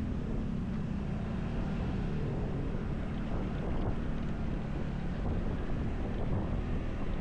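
Motorcycle engine running steadily while riding, with wind buffeting the camera microphone.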